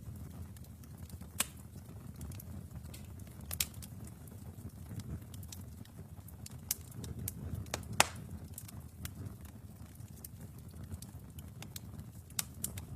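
Wood fire burning in a fireplace: a low, steady rumble of flames with scattered sharp crackles and pops, the loudest about eight seconds in.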